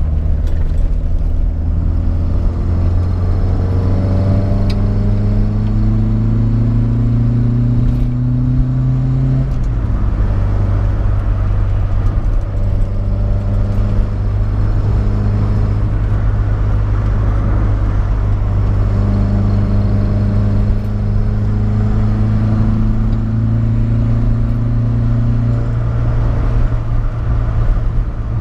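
The 1974 BMW 2002's 2.0-litre M10 four-cylinder engine on Solex 40 PHH carburettors, pulling while driving. The revs climb steadily for about seven seconds and drop abruptly around ten seconds in. They then run steady, climb again for several seconds and drop once more near the end.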